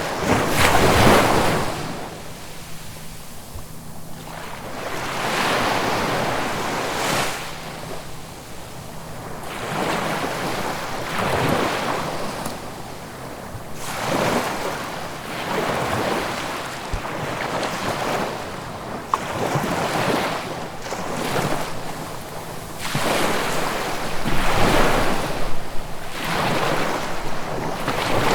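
Ocean surf: waves breaking and washing up the shore in repeated surges a few seconds apart, the loudest about a second in and again near the end.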